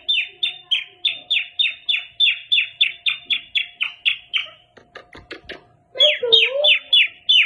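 Indian ringneck parrot calling in a fast run of high-pitched, downward-sweeping squawks, about three a second. They break off after about four and a half seconds and start again near the end.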